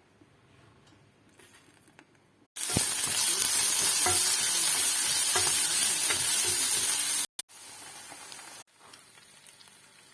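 Food frying in hot oil in a pan, a loud sizzle that starts suddenly about two and a half seconds in and cuts off abruptly, followed by a briefer, quieter stretch of sizzling.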